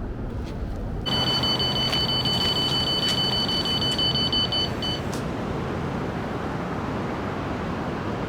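Electronic carp bite alarm going off about a second in with a continuous high beeping tone for about four seconds, briefly breaking near the end: a run, a fish taking line, over a steady background rush.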